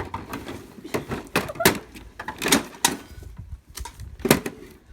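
Irregular knocks and bangs of a refrigerator door being struck and bent apart, several sharp hits in a row with short gaps, a pair of them near the end.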